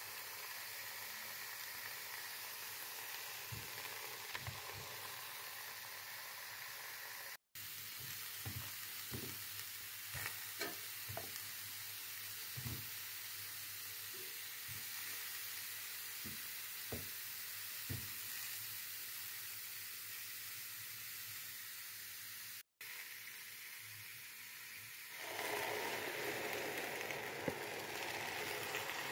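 Whole button mushrooms sizzling steadily in a hot frying pan, with a few soft knocks scattered through the middle. About three-quarters of the way through, the sizzle grows louder and fuller.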